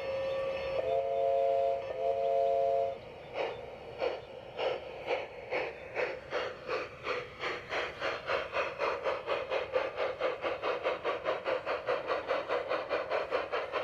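A model steam locomotive's onboard sound system gives two blasts on a chime whistle, then chuffs as the engine pulls away, the exhaust beats quickening from about one a second to several a second as it gathers speed.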